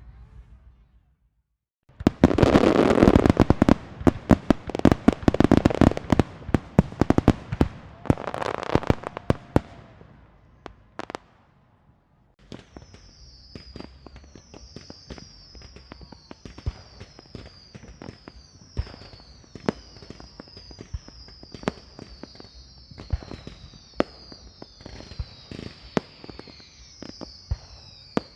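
A string of firecrackers going off in a fast, dense run of loud bangs starting about two seconds in and lasting some eight seconds. After a brief lull, softer scattered pops and crackles follow, with a repeated high descending chirp over them.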